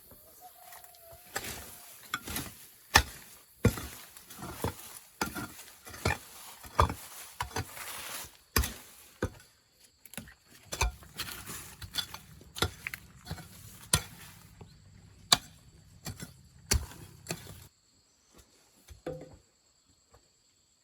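A run of irregular sharp knocks and clicks of hand work with hard objects, some much louder than others, stopping about seventeen seconds in, with only a few faint sounds after.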